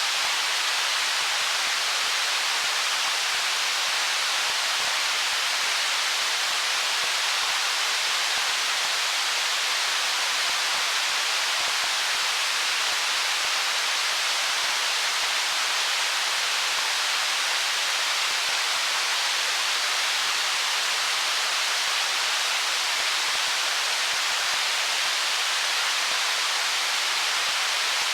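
Stream water rushing over stones: a steady, even hiss that does not change.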